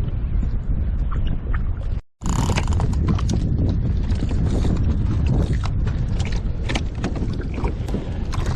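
Wind rumbling on the microphone and water slapping against a kayak hull, with scattered small clicks and knocks. The sound cuts out briefly about two seconds in.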